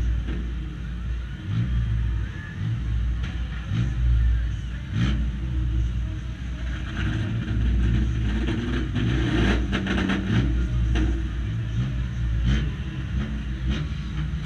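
Banger racing car's engine idling, heard from inside its stripped cabin, with a cluster of short rattles and knocks about ten seconds in.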